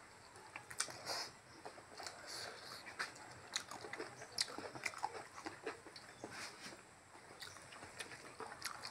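Mouth sounds of eating: chewing a mouthful of rice and pork curry, with irregular smacks and clicks throughout.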